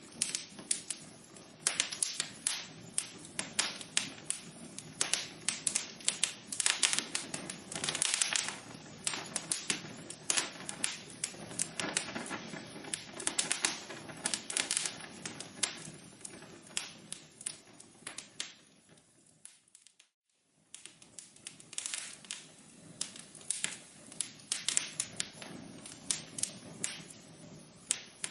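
Wood fire crackling in a fireplace: irregular sharp snaps and pops over a soft, steady burning rustle. About two-thirds of the way through, the sound fades away to near silence and comes back about a second later.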